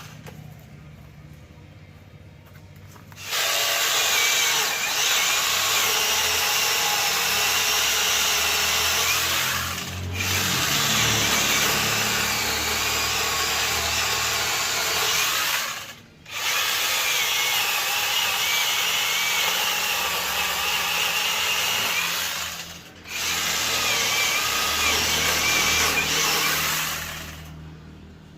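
Angle grinder fitted with a chainsaw adapter, running and cutting wood with a wavering high whine. It starts about three seconds in, briefly lets off three times, and stops near the end.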